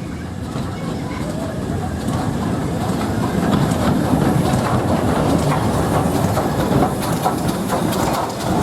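A train running on the rails, growing louder over the first few seconds, with the clatter of wheels over rail joints.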